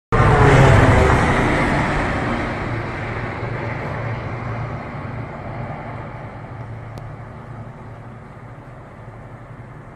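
Boeing 787-8 airliner passing low overhead just after takeoff and fading into the distance, with a low droning hum under the rush of air that the narrator takes for the propeller-like sound of a deployed ram air turbine, a sign that both engines had lost power. It cuts in loud and dies away steadily.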